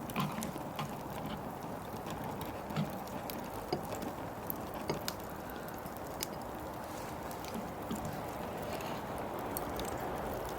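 Fire crackling: a steady hiss with scattered sharp pops and clicks at irregular intervals.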